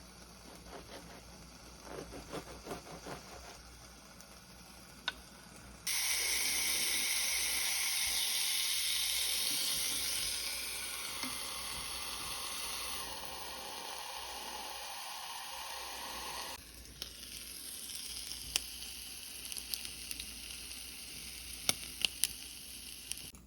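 Food sizzling in a hot frying pan. It starts suddenly about six seconds in, as if the food has just gone into the pan, and eases off gradually. Quieter bubbling comes before it, and a few sharp ticks near the end.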